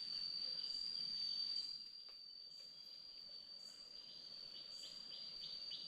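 Crickets trilling: one steady, high, unbroken tone with other insects' short chirps repeating just below it, over a soft hiss that drops away about two seconds in.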